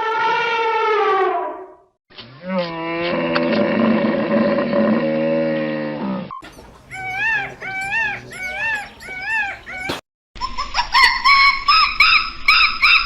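A string of different animal calls edited back to back: a short falling call, then a long low call of about four seconds, then a run of short repeated chirping calls, then a rapid series of higher-pitched calls near the end.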